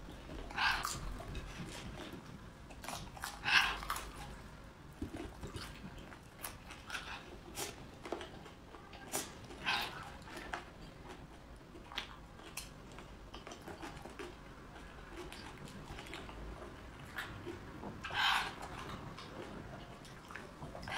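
Close-up eating sounds of raw garlic and fresh red chili peppers: scattered wet mouth clicks and chewing, with a few louder, longer noises spaced several seconds apart.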